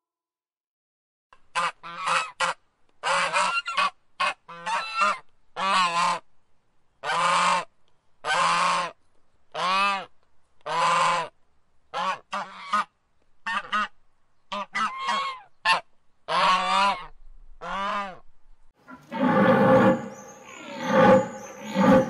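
Goose honking: a string of separate honks, some short and in quick pairs, some longer, turning into louder, overlapping calling near the end.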